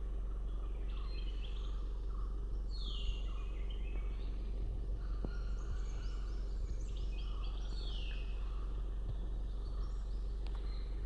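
Forest birdsong: a bird repeats a phrase of quick stepped notes ending in a falling sweep, about every five seconds, over a steady low hum.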